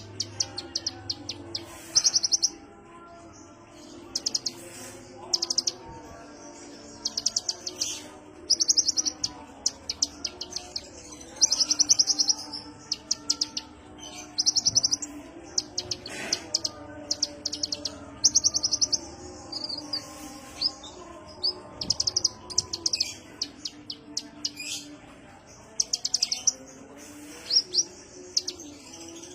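Kolibri ninja sunbird singing: short bursts of very rapid, high chirping trills, each about half a second to a second long, repeated every second or two, with a few thin rising whistled notes in between later on.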